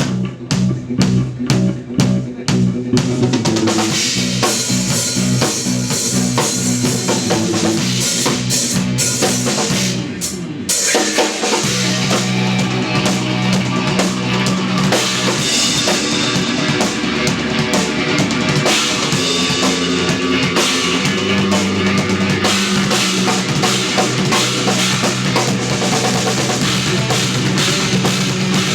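Live instrumental post-rock trio playing drum kit, electric bass and electric guitar. The drums are prominent at first; after a short break about ten seconds in, the band comes back in fuller and heavier, with steady sustained bass and guitar.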